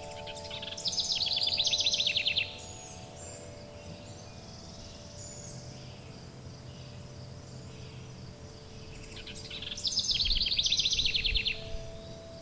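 A songbird sings the same fast trilled phrase twice, about a second in and again near ten seconds in, each lasting about a second and a half. Under it, several long, steady chime tones ring on, with a faint high insect-like hiss throughout.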